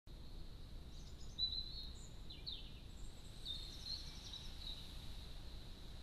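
A songbird singing a few short, high, twittering phrases with quick trills, from about a second in until near the end, over a faint steady high tone and low outdoor background noise.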